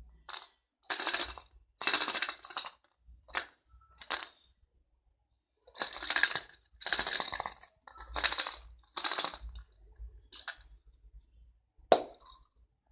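Homemade toy noisemaker made from junk, shaken in about ten short bursts with pauses between, giving a rattling, clinking jingle.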